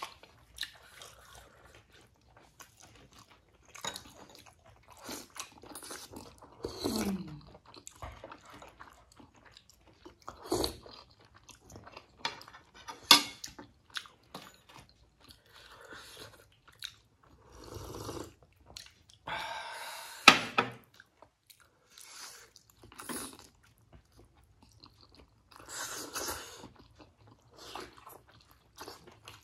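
Chewing and biting of chicken and pork momos, in short irregular bouts, with a few sharp clicks.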